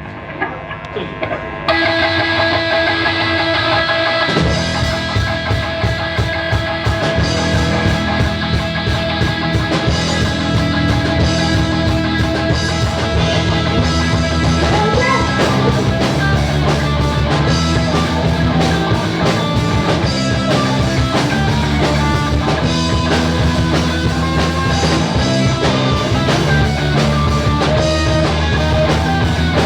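Rock band music led by electric guitar; the full band, with a heavy low end, comes in about four seconds in and plays on steadily.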